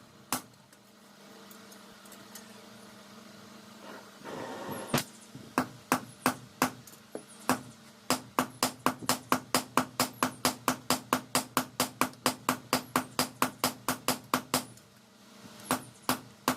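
Hammer blows on steel at the anvil while a blade is forged from a car leaf spring. A few spaced strikes give way to a steady run of about three blows a second, which stops shortly before the end, with a low steady hum underneath.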